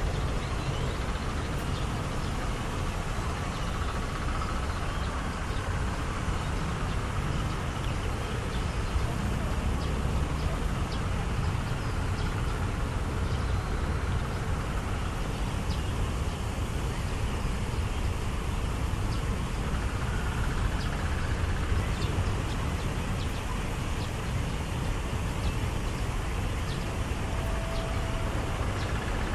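Steady low rumble of distant city traffic, with faint scattered ticks above it.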